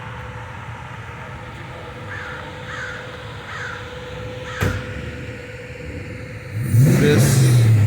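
A crow cawing four times, then a single sharp knock. Near the end a car engine comes in loud, its pitch rising briefly as it drives by.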